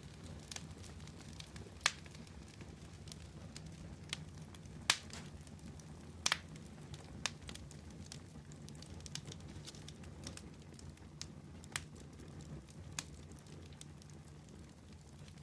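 Wood campfire burning: irregular sharp crackles and pops over a low steady rumble, with the loudest pops about two, five and six seconds in.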